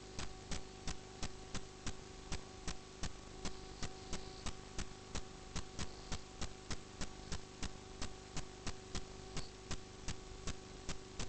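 Steady, even ticking about three times a second over a constant electrical hum.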